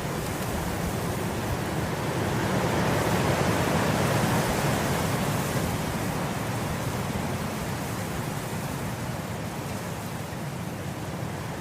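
Wind blowing through grass, a steady rushing hiss that swells in a gust a few seconds in and then eases off.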